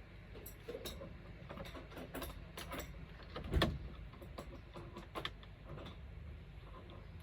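Scattered light clicks and knocks of objects being handled, with one louder knock about halfway through.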